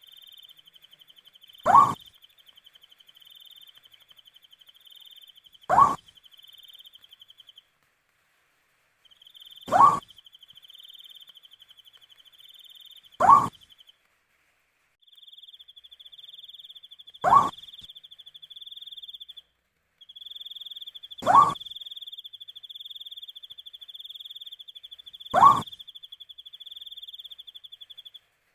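An owl giving a short rising hoot, repeated about every four seconds, seven times. Behind it runs a steady, pulsing high insect trill, like crickets, which cuts out briefly three times.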